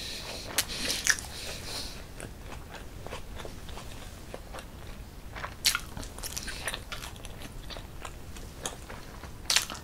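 Close-miked mouth sounds of a person eating: wet chewing and lip smacks, with short crunchy clicks throughout and a few louder ones about half a second, a second, six seconds and nine and a half seconds in.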